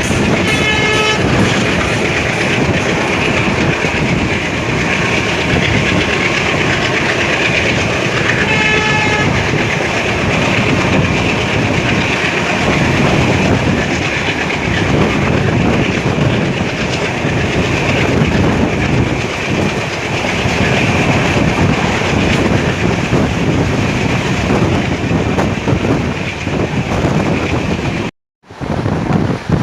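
Passenger train running at speed, with a loud steady rumble of wheels on rail. Two short horn blasts sound, one just after the start and one about 9 s in. The sound cuts out briefly near the end.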